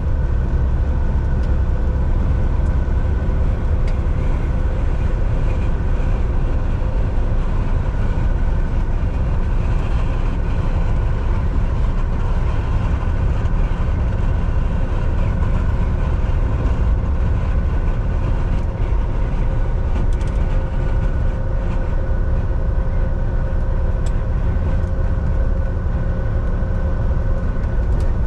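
Volvo VNL 760 semi truck driving steadily, heard from inside the cab: a constant low engine and road rumble with a steady whine running over it.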